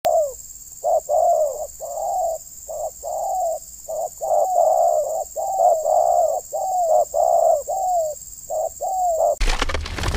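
Spotted dove cooing: a long run of short coos, many ending in a downward slide. About nine seconds in, a sudden loud noisy sound cuts in.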